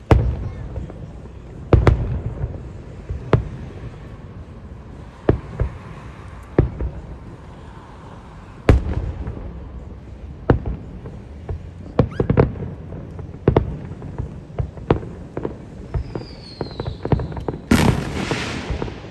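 Aerial fireworks bursting: a string of sharp bangs at uneven intervals, each trailing off in a low rumbling echo. Near the end a faint falling whistle is followed by a loud hissing burst about a second long.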